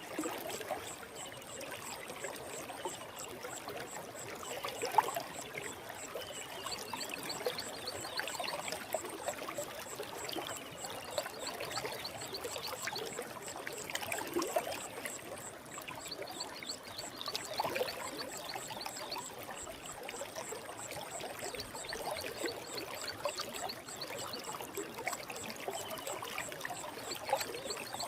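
Small forest stream flowing over rocks, a steady rush of water with many small trickles and splashes.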